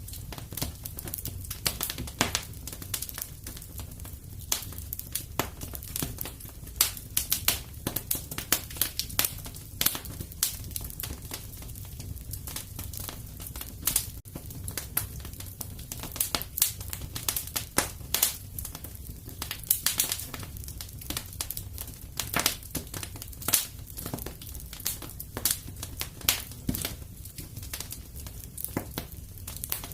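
Wood fire crackling in a fireplace: irregular snaps and pops, some sharp and loud, over a low steady rumble.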